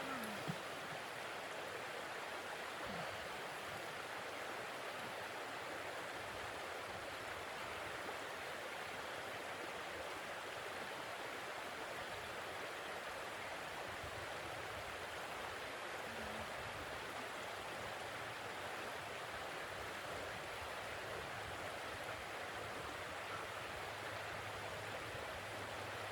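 Steady, even rushing hiss that holds at one level throughout, with no distinct events in it.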